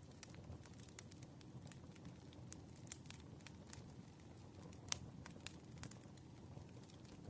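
Campfire crackling faintly: scattered sharp pops and snaps over a low, steady rumble of the fire, with the loudest pop about five seconds in.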